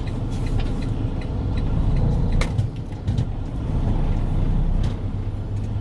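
Semi truck's diesel engine idling steadily, heard inside the cab as a low rumble, with a couple of sharp clicks.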